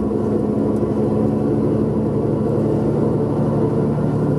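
Tour bus engine running steadily while the bus drives, heard from inside the cabin as an even, unchanging hum.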